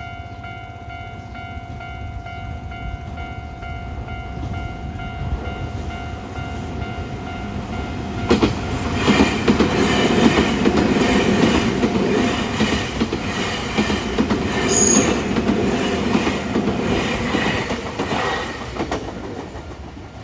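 A Nankai Koya Line electric train passing over a level crossing. Its rumble builds as it approaches, then the cars pass for about eleven seconds with a dense clatter of wheels over the rails, and a brief high wheel squeal comes about fifteen seconds in. The crossing's warning bell rings steadily underneath, plainest before the train arrives.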